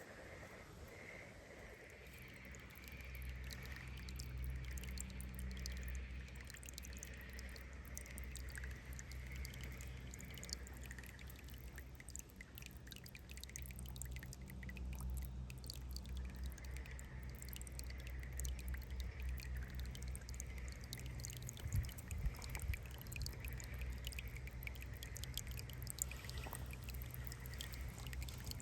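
Shallow water trickling and dripping, with scattered small clicks. A steady low rumble sets in a few seconds in.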